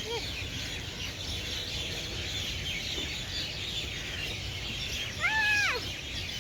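Many small birds chirping together in a steady chorus, over a low outdoor rumble, with one louder call that rises and falls about five seconds in.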